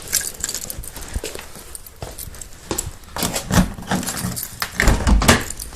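Scattered metallic clicks and knocks as a car battery is connected, clamp and tools against the terminals, with a few duller thumps after the halfway point. The engine is not running.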